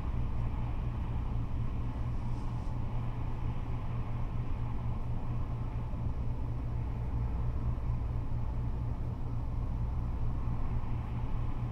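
Freeway traffic of cars and trucks going by, a steady low rumble of engines and tyres.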